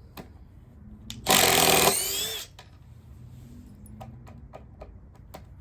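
Makita XDT19 brushless impact driver run in reverse, hammering rapidly for about half a second to back a screw out, then fading out as the screw comes free. Light handling clicks before and after.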